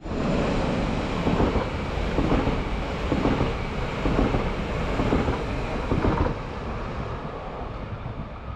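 A train running along the tracks with a steady rumble and a knocking beat about once a second. After about six seconds the knocks stop and the rumble goes on quieter.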